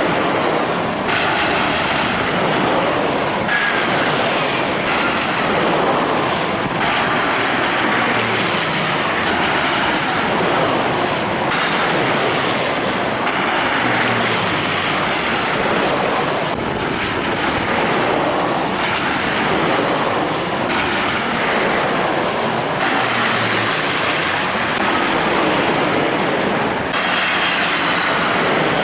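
Jet airliner engines running loud and steady, with high whining tones that slide downward several times, over wind on the microphone.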